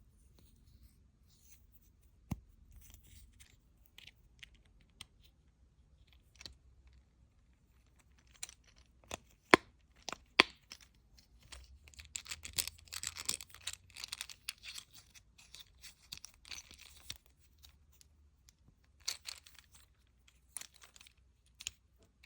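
Small plastic fidget toy, a Polly Pocket fidget bracelet, being handled: scattered sharp clicks, two of them loud about halfway through, then several seconds of crinkly tearing rustle, with more clicks and rustle near the end.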